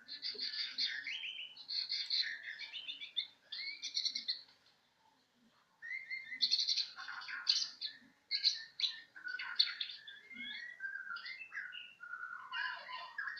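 Young bahorok songbird singing a varied, chattering song of quick high notes. It pauses briefly about five seconds in, then resumes.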